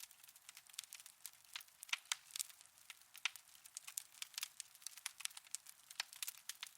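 Wood fire in a fireplace crackling: quick, irregular snaps and pops several times a second, with no low rumble beneath them.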